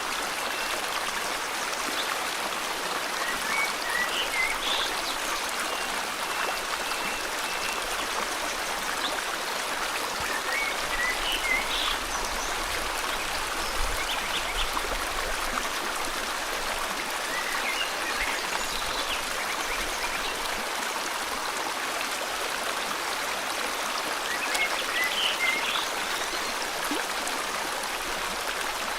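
River water flowing steadily, with short bird chirps breaking in a few times, in clusters about every seven seconds.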